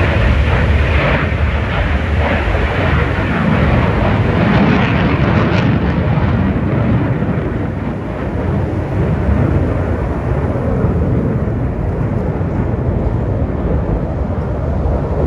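Aircraft flying past, a loud steady rush of engine noise whose hiss dulls after about six seconds as it draws away.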